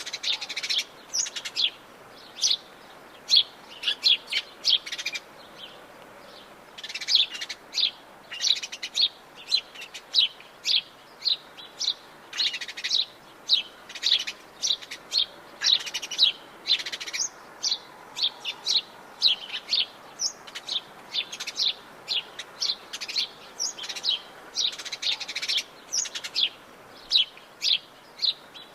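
Several birds of the Atlantic Forest chirping and calling, with many short, sharp high notes in quick succession and a brief lull about six seconds in.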